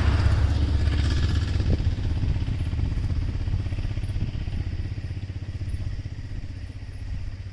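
Motor vehicle engine running with a low, rapidly pulsing rumble that fades steadily, as if the vehicle is moving away.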